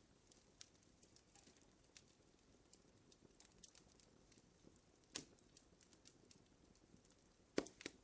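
Wood fire crackling in a fireplace: scattered faint snaps over a soft low rustle, with two louder pops, one about five seconds in and one near the end.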